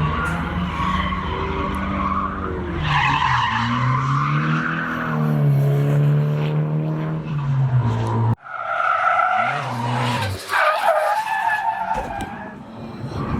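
Drift car engine running hard, its pitch dropping and climbing again as the driver works the throttle, over the high squeal of tyres sliding sideways. About eight seconds in, the sound cuts abruptly to another stretch of tyre squeal with a fainter engine.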